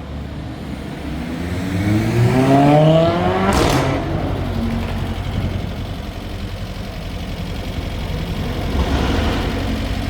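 A car accelerating hard in street traffic, its engine note climbing for about two and a half seconds before easing off, then a steady rumble of traffic.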